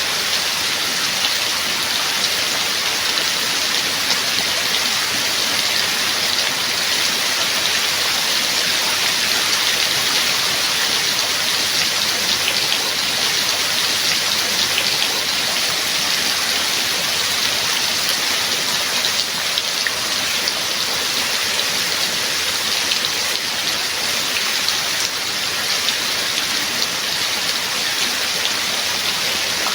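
Rain falling steadily: an even hiss of many drops, with scattered sharper ticks of single drops striking.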